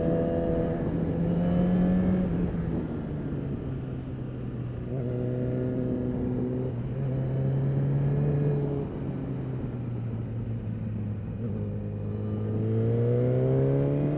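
Kawasaki Ninja ZX-10R sportbike engine heard from the rider's seat at part throttle, its note rising and falling gently through the corners and climbing near the end, with wind rush on the microphone.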